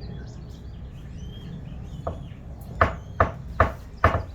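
Hammer striking a stuck rear bumper bolt on a Jeep Comanche: a lighter tap, then four sharp blows in quick succession, each a little under half a second apart. Birds chirp in the background.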